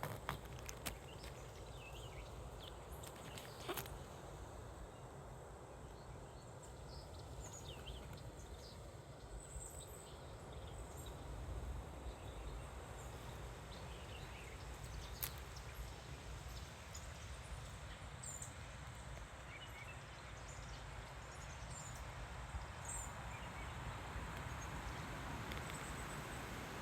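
Wind rumbling on the microphone, with birds chirping in short, scattered calls and a couple of sharp clicks.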